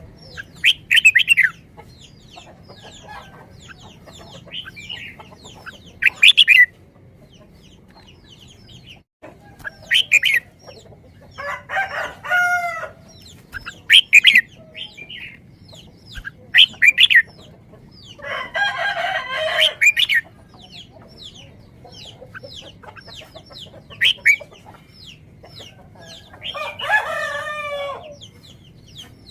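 Birds calling: a string of short, sharp calls and three longer pitched calls of about a second and a half each.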